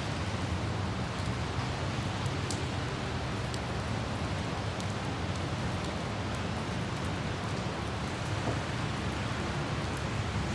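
Light rain with scattered droplet ticks over a steady low rumble of road and traffic noise.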